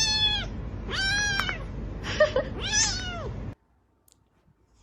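Domestic cat meowing three times, each meow rising then falling in pitch, and the sound cutting off suddenly about three and a half seconds in.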